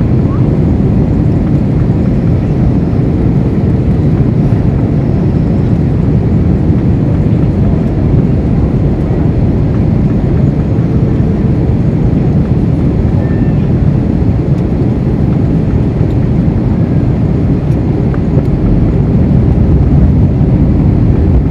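Steady low roar of an Airbus A321's jet engines during its landing, swelling slightly near the end.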